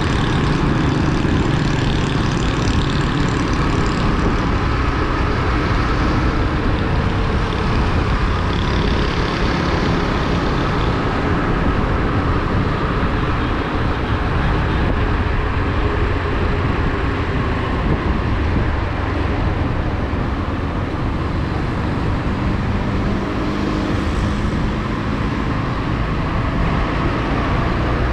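Motorcycle on the move: its engine runs steadily under heavy wind rush over the microphone, the engine note shifting now and then.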